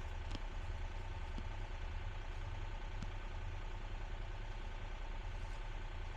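Excavator's diesel engine running steadily at idle: a low rumble with a faint steady whine above it.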